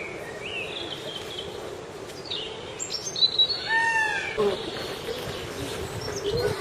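Indian peafowl calling among other bird chirps: scattered short calls, and one louder call with arching overtones about three and a half seconds in.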